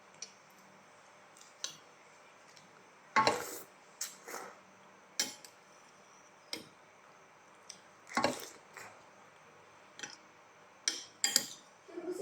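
Close-up eating noises: cutlery clinking on a dish and short mouth sounds, a dozen or so sharp clicks and smacks at irregular intervals over a faint steady background.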